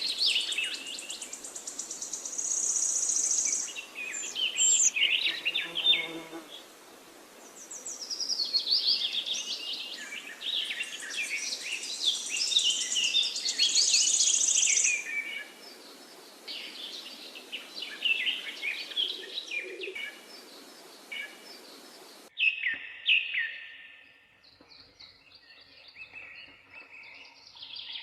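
Several songbirds chirping and singing, with overlapping calls and a fast, high trill twice. About two-thirds of the way in, the background hiss stops abruptly and the calls become fewer and fainter.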